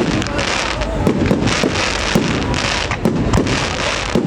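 Fireworks going off in a dense, continuous barrage: rapid overlapping bangs and crackles with no pause.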